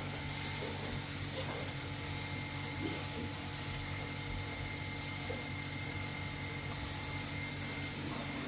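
A steady machine hum with a thin, constant high whine over an even hiss, and a few faint knocks.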